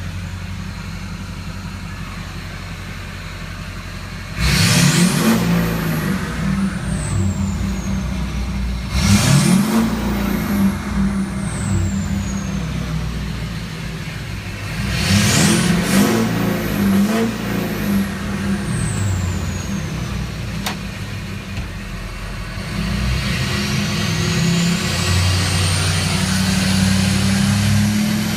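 Duramax LBZ 6.6-litre turbodiesel V8 running through a 5-inch straight-pipe exhaust, opening up hard three times, each burst followed by a high whistle falling away. Near the end it builds again under a steadily rising whistle.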